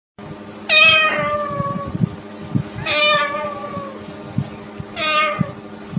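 Three drawn-out meows about two seconds apart, each falling in pitch, the first the longest and the last the shortest.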